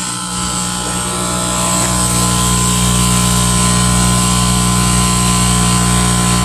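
Small air compressor (tire inflator) running steadily to fill low tires, growing louder over the first couple of seconds and then holding at an even pitch.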